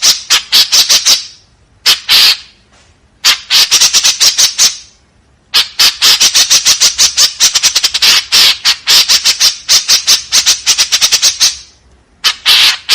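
White-breasted woodswallow giving rapid runs of harsh, rasping call notes, about six a second, in bouts broken by short pauses of about half a second.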